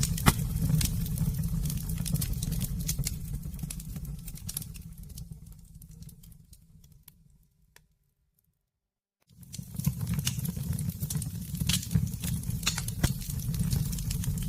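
Campfire crackling and popping over a low, steady rumble of flames. The sound fades away to silence about halfway through, then comes back suddenly a second or two later.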